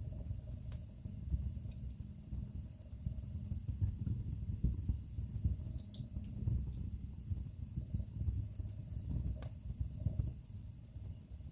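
Wood fire burning in a fireplace: a low, uneven rumble of flames with a few sharp crackles and pops from the logs scattered through, one every couple of seconds.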